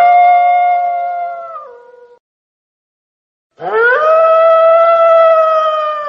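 Wolves howling: two long howls, each sliding up at the start and then holding a steady pitch. The first falls away and stops about two seconds in. After a silent gap, the second begins about three and a half seconds in and carries on through the end.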